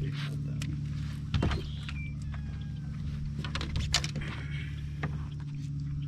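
A steady low motor hum, with scattered clicks and knocks and a few short high chirps over it.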